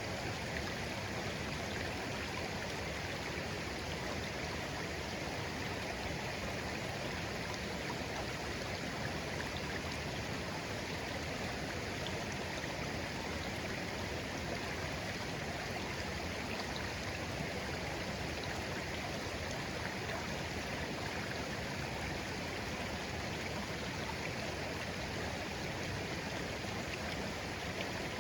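A shallow, clear stream flowing gently, a steady babble of running water that doesn't change.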